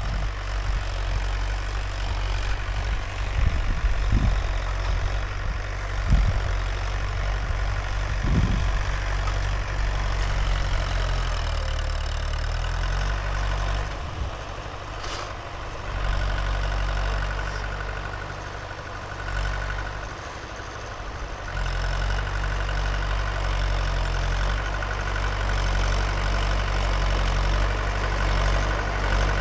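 Mahindra 575 DI tractor's four-cylinder diesel engine running steadily, with a few short thumps in the first several seconds. Its sound drops away twice around the middle, then picks back up and holds steady.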